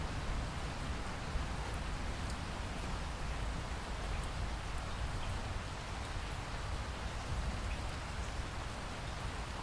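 Steady rain falling: an even hiss over a deep low rumble, with a few faint drop ticks scattered through it.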